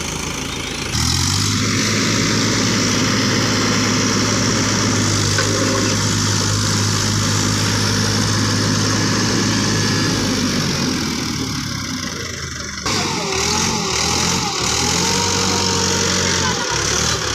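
Tractor engine running steadily at a constant speed. The sound cuts in abruptly about a second in and changes sharply near the end.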